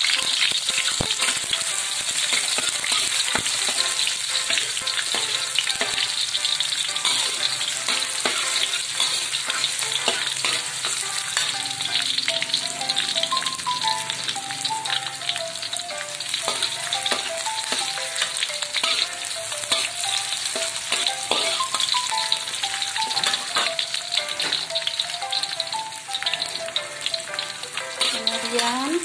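Sliced onions sizzling in hot oil in a wok, with a metal spatula stirring them and scraping and tapping against the pan.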